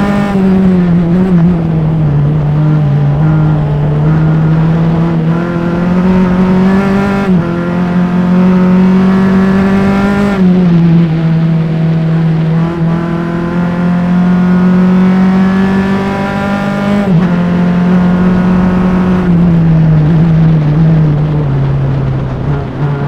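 Formula Enterprises single-seater race car's engine at racing speed. Its pitch climbs under acceleration, drops sharply at the upshifts, and steps down several times near the end as the car brakes and downshifts. Some tire noise sits underneath.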